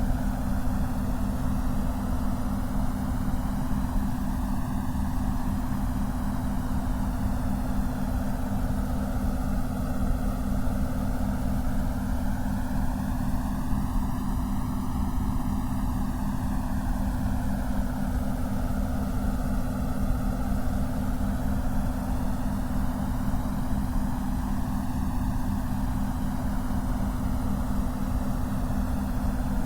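Synthetic white-noise track for stereo headphones: a steady hiss, heaviest in the low range, with a rapidly fluttering hum near the bottom and a slow whooshing sweep that rises and falls over about fifteen seconds.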